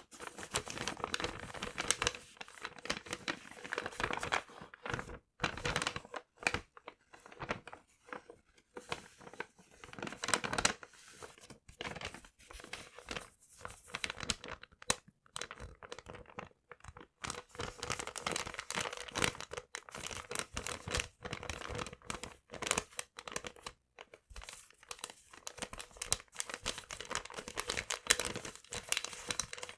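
Paper being crinkled and torn by hand close to the microphone: irregular crackling rustles in clusters, broken by short pauses.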